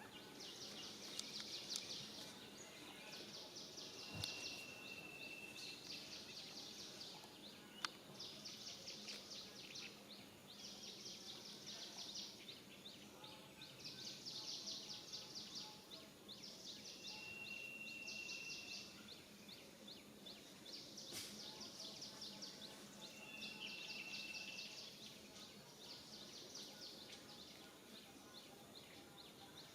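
Faint outdoor natural ambience: a high, rapidly pulsing chirr comes in bursts of a second or two, repeating every few seconds. Now and then a short, steady high whistle sounds over it.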